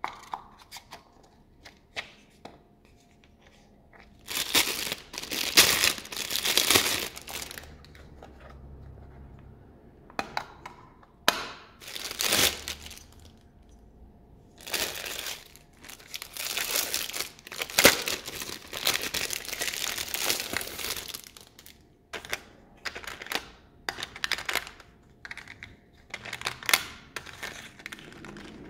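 Packaging being crinkled and torn open as stationery is unwrapped: rustling bursts of a second or more, with scattered small clicks and taps between them.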